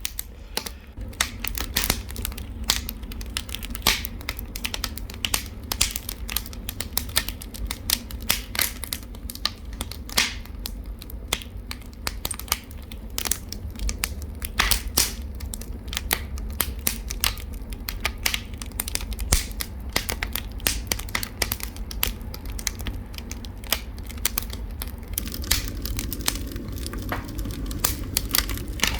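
Wood fire crackling and popping in a wood-burning stove: irregular sharp snaps over a steady low rumble.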